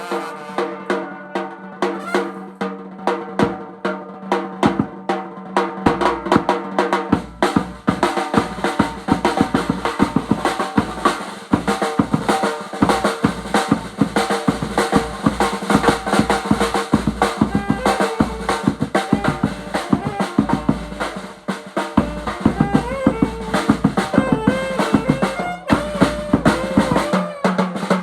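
Funeral band music: fast, busy snare and bass drum beats under sustained melody instruments. The drumming thins briefly about three-quarters of the way through, then picks up again.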